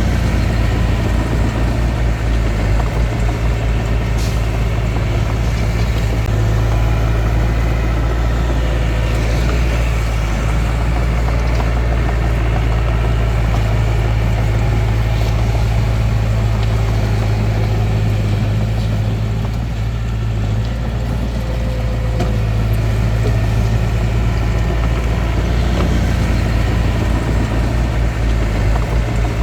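Hitachi DX45M bulldozer's diesel engine running steadily with a deep, even drone that eases slightly about two-thirds of the way through.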